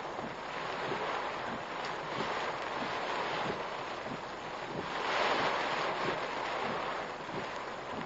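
Typhoon wind and rain heard on a car dashcam: a steady rushing noise that swells about five seconds in, then eases.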